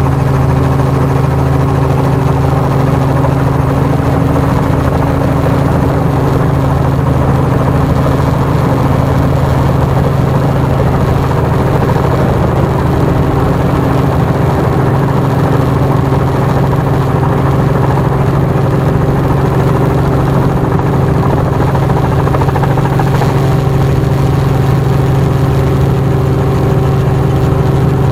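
Helicopter engine and rotor running steadily, heard from inside the cabin, a constant low hum with a few higher steady tones above it.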